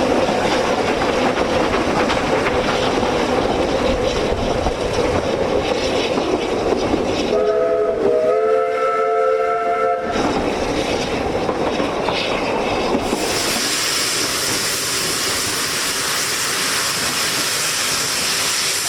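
Narrow-gauge Ffestiniog Railway train running over the rails, then sounding its whistle as one chord of several notes for about three seconds. From about two-thirds of the way through, the running noise gives way to a steady hiss.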